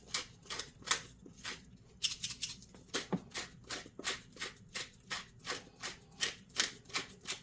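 Hand-twisted black pepper grinder being turned over and over, a steady run of short grinding strokes about three a second.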